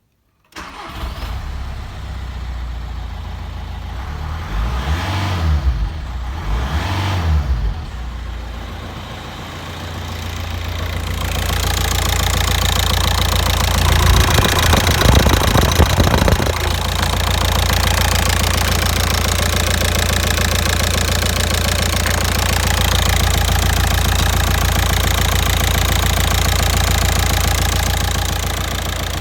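Volkswagen 1.9 TDI (BLS) four-cylinder turbodiesel engine starting up about half a second in and idling. It is briefly revved twice around 5 and 7 seconds. From about 11 seconds it runs louder, with another rev near the middle, then settles to a steady idle.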